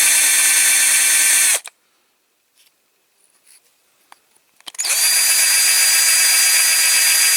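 Small power drill run twice at a steady speed, a short run at the start and a longer one from about the middle on, drilling into a diecast toy car to free its driver figure.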